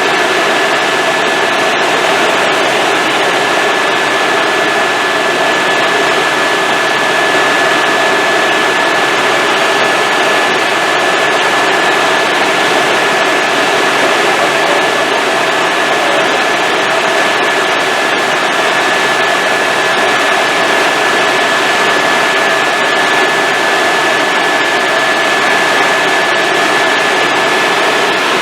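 Helicopter in flight heard from inside the cabin: a loud, steady rush of rotor and engine noise with one constant high whine.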